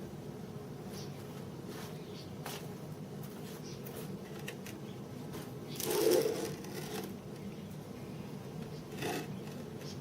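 Metal workshop parts being handled: a few light clicks, then a brief rubbing scrape about six seconds in and a smaller one near the end, over a steady low hum.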